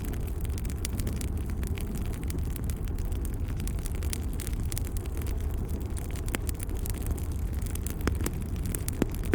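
Wood fire in a fireplace crackling, scattered sharp pops over a steady low rumble, with a few louder pops in the last few seconds.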